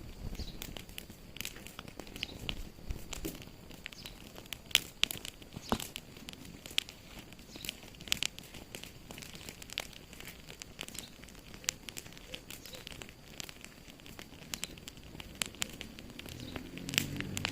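Wood fire in a fireplace crackling, with irregular sharp pops and snaps over a soft hiss. A low rumble rises near the end.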